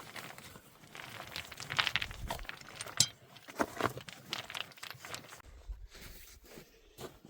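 Irregular crunching and rustling handling noises with scattered clicks, one sharp click about three seconds in.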